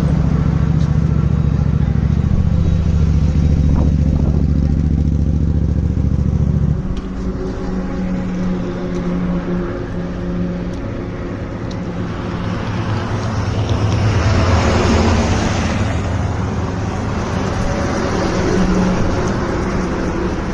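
Motor vehicle engines and road noise on a highway. A steady low engine drone drops away abruptly about seven seconds in, followed by lighter traffic noise with a vehicle rushing past near the middle and another towards the end.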